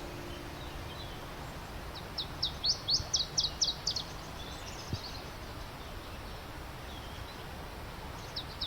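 A songbird singing a quick series of about a dozen sharp, high notes about two seconds in, and starting another such series near the end, over a steady outdoor hiss.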